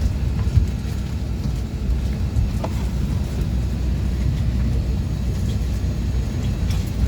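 Steady low rumble of a vehicle's interior, with a few faint clicks.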